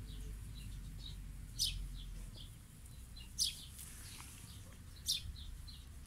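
Wild birds chirping: a short, high call comes about every one and a half to two seconds, with fainter chirps between.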